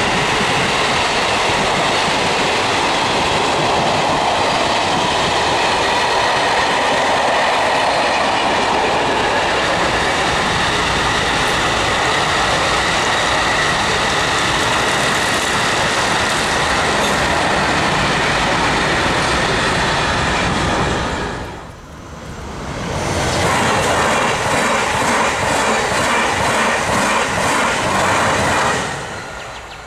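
A long track-renewal works train of sleeper and hopper wagons rolls past, its wheels running steadily on the rails with high ringing tones. About two-thirds of the way in, the sound cuts to a TGV Duplex high-speed train passing close by, with a fast, regular clatter of wheels over the rails that fades away near the end.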